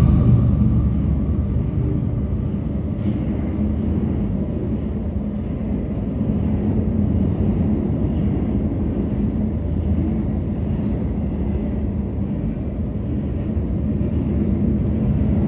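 A passing train: a steady, loud rumble of the train rolling on the rails.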